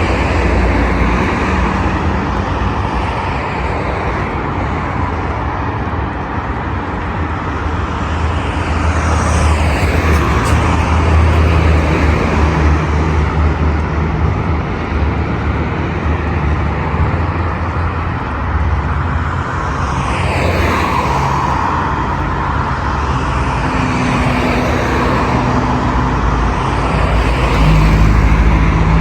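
Steady traffic on a busy boulevard: a continuous rumble of car engines and tyre noise, with vehicles passing close by every so often, the loudest near the end.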